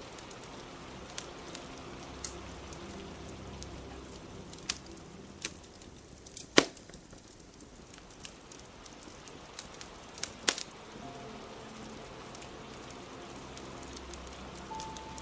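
Crackling fire, with irregular sharp pops and snaps, the loudest about six and a half seconds in and again about ten and a half seconds in, over a steady hiss of rain. Soft music plays faintly underneath.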